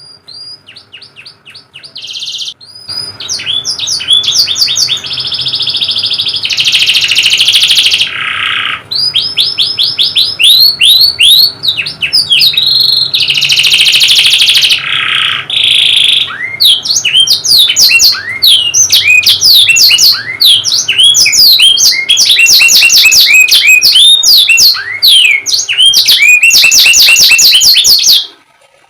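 Domestic canary singing a long, loud song of rapid repeated chirps and trills. It builds up over the first few seconds and cuts off suddenly near the end.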